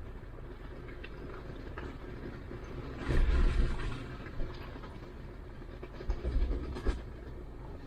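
Jeep Gladiator driving slowly over a rough, rocky trail: steady running noise with jolts and rattles as it bumps over rocks, loudest about three seconds in and again around six to seven seconds.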